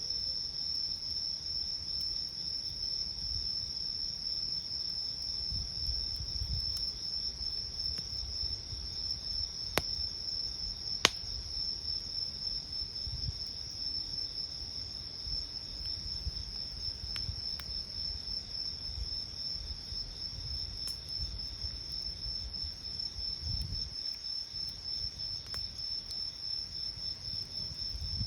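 Crickets trilling steadily in a continuous high-pitched chorus, over a low uneven rumble from the campfire. Two sharp pops from the burning wood stand out about ten and eleven seconds in.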